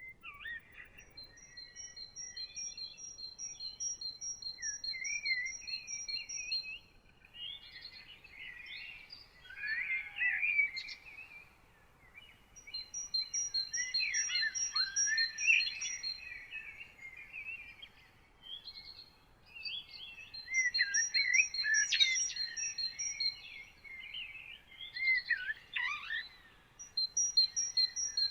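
Several songbirds singing together at dawn. One bird repeats a high note at an even pace, a few times a second, in runs of several seconds that come back again and again. Others sing varied warbling and chirping phrases in between.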